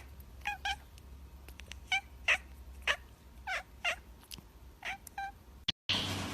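A cat mewing in short, high calls, about nine of them, mostly in quick pairs.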